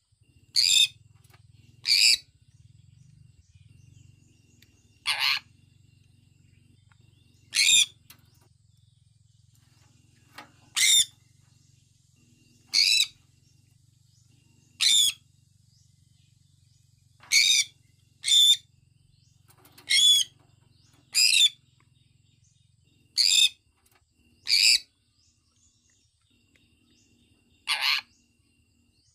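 Sun conure giving short, shrill chirping calls, about fourteen of them at irregular intervals of one to three seconds.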